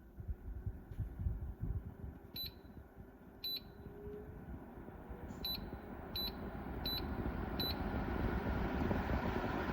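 YougetTech evaporative humidifier beeping six short times from its control panel as its buttons are pressed, while its fan runs, growing steadily louder as it speeds up.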